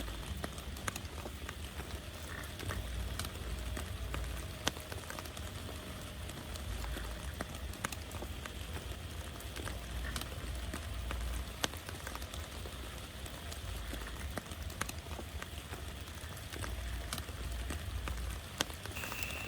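Heavy rain falling steadily, with scattered louder drops tapping on a nearby surface and a low rumble that comes and goes underneath.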